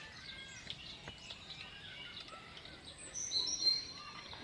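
Birds chirping and calling, a scatter of short chirps with a louder, high whistled call about three seconds in.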